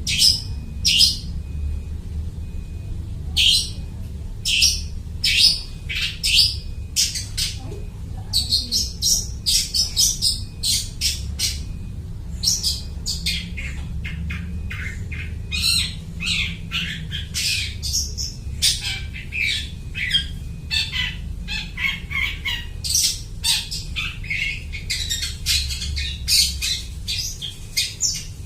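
Long-tailed shrike (cendet) singing hard, a fast string of short, harsh chirps and squawks that mimic other birds' calls; the notes come sparsely for the first few seconds, then pack tightly together.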